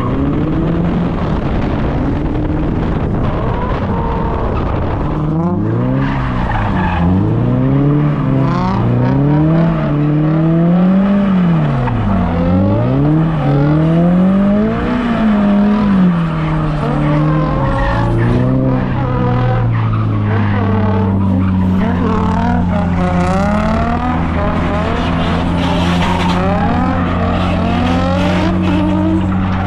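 Toyota GR86's 2.4-litre flat-four engine heard from inside the cabin during a drift run. About five seconds in it starts revving up and down over and over, with tyre squeal. From about twenty seconds it settles to a steady note.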